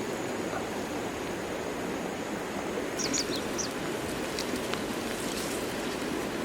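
Steady rushing outdoor ambience, with a few short, high bird chirps about three seconds in.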